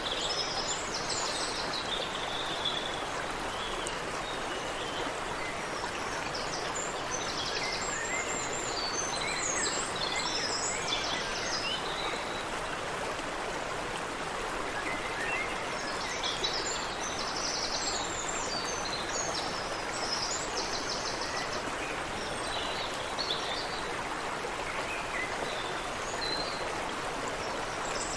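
Creek water running steadily, with various birds chirping and trilling over it in scattered bursts.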